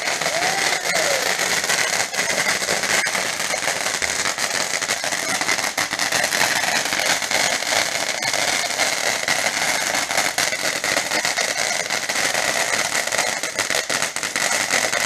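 A lit ground firework burning, with a continuous hiss and dense crackling at an even loudness.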